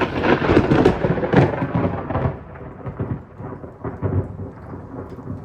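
Thunder from a close cloud-to-ground lightning strike: a loud crackling crash for the first two seconds or so, then a rumble that dies away, with a small swell about four seconds in. Rain falls alongside.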